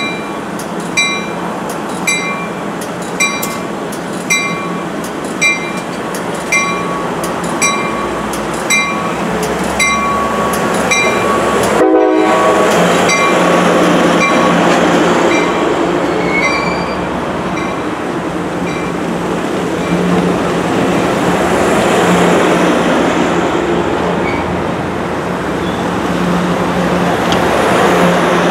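A train's bell ringing steadily about once a second, stopping about eleven seconds in; after that, the loud rushing rumble of a train moving along the tracks swells and fades and swells again over a low steady engine hum.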